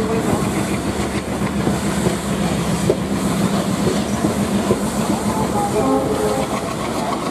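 A passenger train hauled by a WP-class steam locomotive rolling past, its coach wheels giving a steady rumble with scattered knocks as they cross the rail joints.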